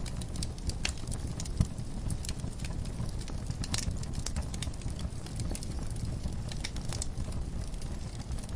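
Wood fire burning in a fireplace, with irregular crackles and sharp pops over a steady low rumble, one pop louder than the rest about a second and a half in.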